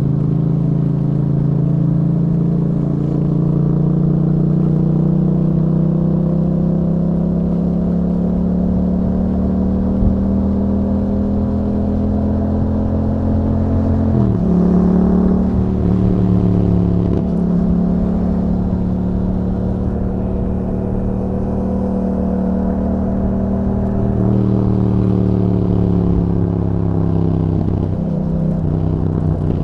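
A Yamaha MT-07's parallel-twin engine running under way through an aftermarket Akrapovic exhaust with a dB killer fitted. Engine speed climbs slowly at first, then dips sharply and picks up again about halfway through, and again near the end.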